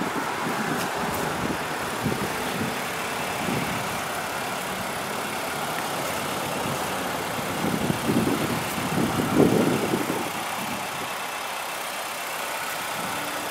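A 2011 Mazda CX-7's 2.3-litre turbocharged four-cylinder idling steadily, with a few soft low thumps around eight to ten seconds in.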